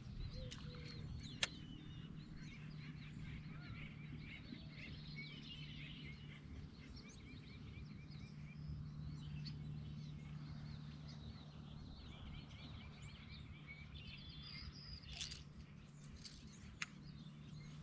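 Small birds chirping in many short, quick calls, over a steady low hum, with a couple of sharp clicks.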